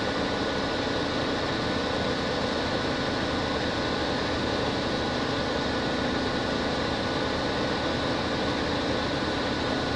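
Ford 4.9-litre inline-six engine of a 1992 Econoline idling steadily, with a thin steady whine above the running.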